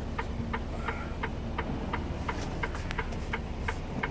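Truck's indicator flasher clicking evenly, about three clicks a second, over the low rumble of the idling diesel engine, heard inside the cab.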